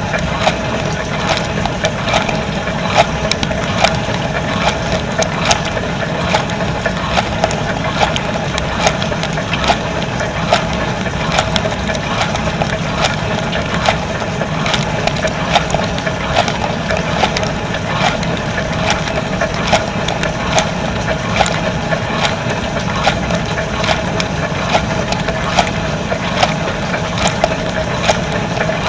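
Dishwasher running its wash cycle, heard from inside the tub: a steady pump hum under water jets spattering against the dishes and walls, with many irregular sharp clicks and patters.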